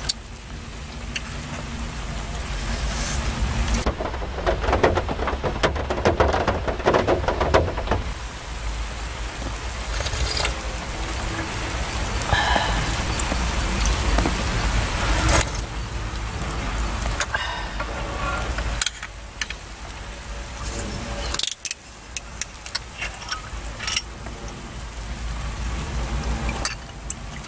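Heavy rain falling on a parked car, a steady wash of rain with a deep low rumble under it and scattered sharper drops striking the body. The rain thickens for a few seconds about four seconds in.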